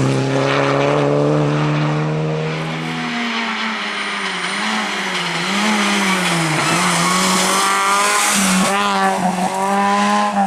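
Rally car engine running hard, held at steady revs for about three seconds, then rising and falling repeatedly with the throttle.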